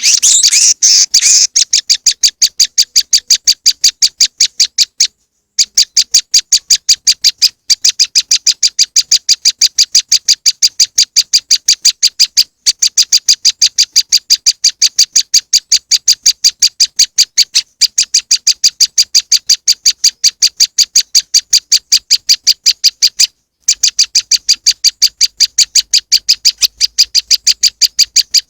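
Looped lure recording of a prenjak lumut calling: a fast, even train of sharp, high chip notes, about five a second, in long strings broken by short pauses. The run is denser for the first second or so.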